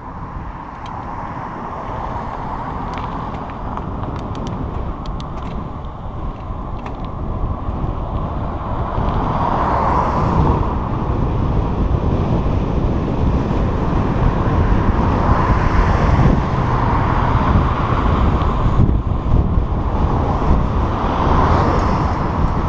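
Riding noise from a bicycle on a trail: wind buffeting the microphone over the rolling of the tyres. It grows louder over the first half, with a few light ticks in the first several seconds.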